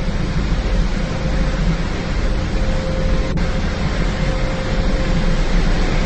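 In-bay automatic car wash machinery running: a steady rushing noise over a low rumble, with a faint steady hum.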